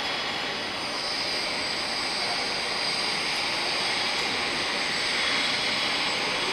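Shinkansen bullet train approaching the platform: a steady rushing noise that slowly grows louder.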